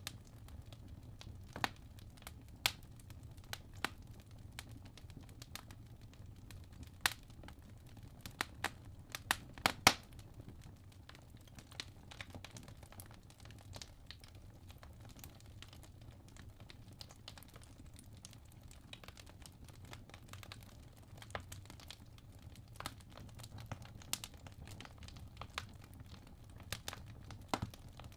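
Wood logs burning in a fireplace, crackling with irregular sharp pops and snaps over a low steady rumble, with a cluster of louder pops about eight to ten seconds in.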